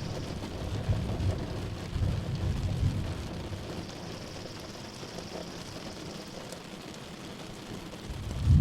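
Steady rain with rolling thunder that rumbles low through the first few seconds and dies away, leaving the rain alone, then a louder peal of thunder starts right at the end.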